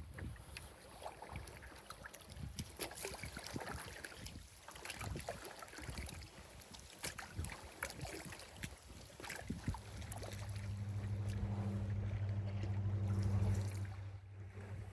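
Paddling a canoe: small splashes and light knocks of the paddle against the hull. In the last few seconds a steady low hum with overtones comes in, swells, and stops abruptly.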